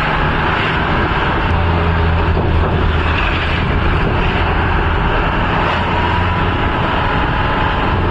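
Motor vehicle driving on the road: steady engine hum with road and wind noise, heard from aboard.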